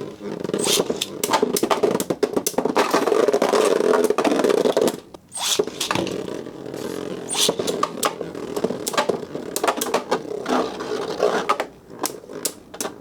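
Metal Fight Beyblades, Meteo L-Drago and Gravity Perseus, spinning in left spin inside a plastic stadium: a continuous scraping whir, broken by many sharp clacks as the tops strike each other and the stadium wall. The sound dips briefly about five seconds in and thins out near the end.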